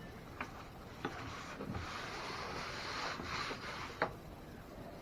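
Hard parts being handled on a workbench: a few sharp clicks, and a rubbing, scraping noise that lasts a couple of seconds in the middle.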